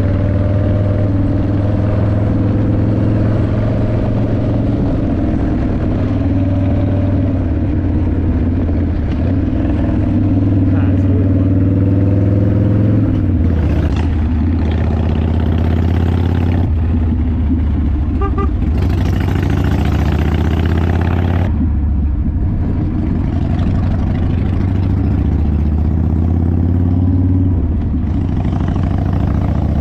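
Harley-Davidson motorcycle's V-twin engine running steadily while riding, its pitch shifting about halfway through.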